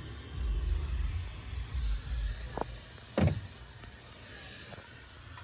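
A low rumble, then two sharp knocks a little over half a second apart, the second louder.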